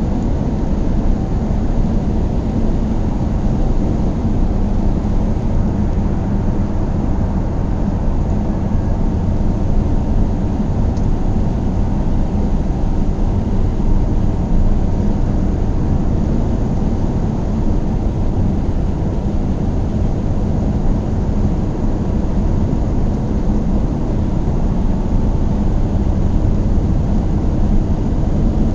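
Car driving at a steady speed: a constant low rumble of engine and road noise with no change in pitch.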